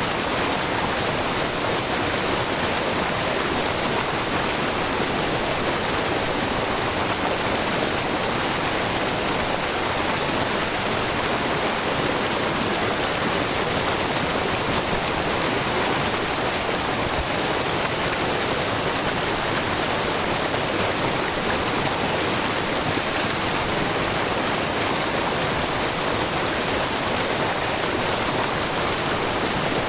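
Shiraito Falls, a low, wide curtain of groundwater spilling over a rock face, with a steady, unbroken rush of falling water.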